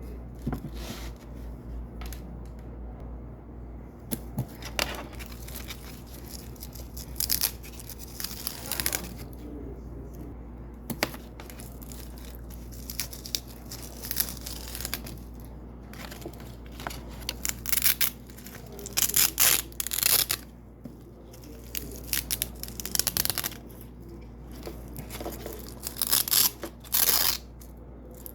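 Hook-and-loop (velcro) strips being peeled apart again and again, each pull a crisp ripping rasp, in short clusters with pauses between.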